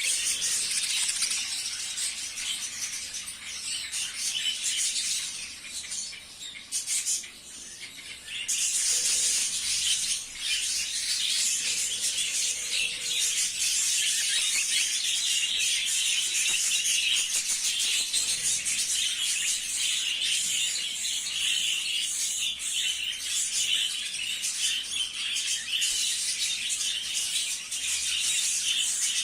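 A flock of budgerigars chattering and warbling in a dense, continuous twitter. It thins out briefly a few seconds in, then comes back fuller from about eight seconds on.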